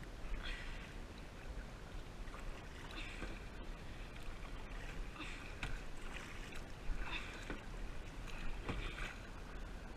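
Kayak paddle strokes dipping and splashing in the water, one about every one and a half to two seconds, over a steady low rumble.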